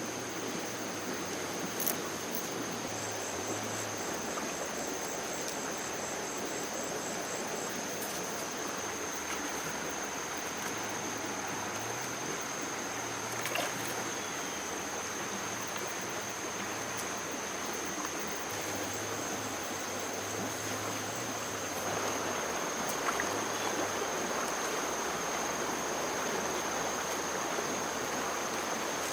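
Steady rush of flowing water, like a stream, with a constant thin high-pitched tone over it and a few faint clicks.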